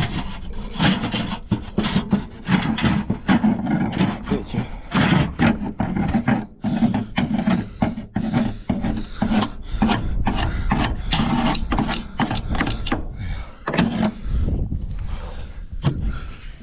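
Rapid, irregular scraping and rubbing strokes, like something being scraped or scrubbed by hand, thinning out near the end.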